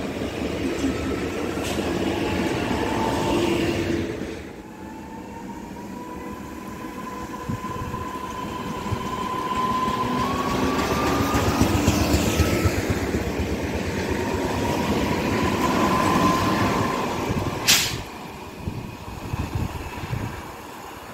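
Electric multiple units passing: one pulls past with steady traction motor whines over the rumble of wheels on rail, then a second approaches, its rumble building and its motor whine stepping up in pitch. The sound cuts off suddenly near the end.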